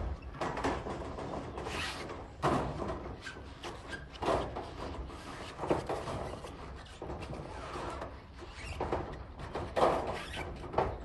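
Irregular knocks and clatter, a handful of louder thuds at uneven intervals over a low background rumble.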